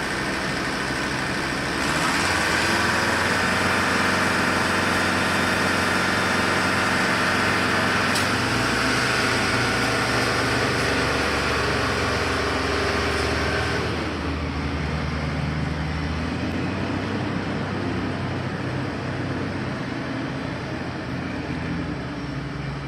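Heavy diesel engines of road-paving machinery running steadily. The sound grows louder about two seconds in, and the engine note drops in pitch and level at around fourteen seconds.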